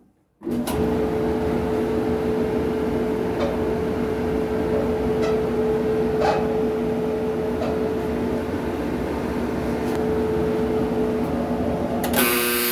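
Kenmore clothes dryer starting about half a second in and running: a steady motor hum with a pitched drone and the drum turning, with faint squeaks now and then and a louder burst near the end. The squeaking is small, and the owner suspects the drum support wheels or the felt drum seal.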